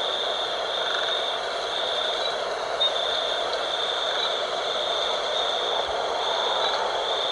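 Night ambience: a steady rush of wind, with a high insect trill that repeats in pulses of about a second with short breaks.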